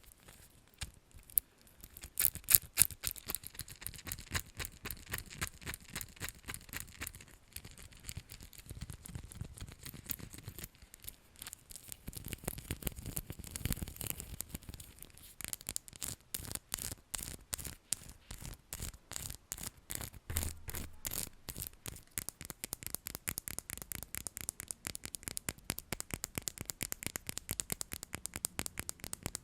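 ASMR tapping: a long run of quick, light taps and scratches on an object, uneven at first, then faster and more regular from about halfway through.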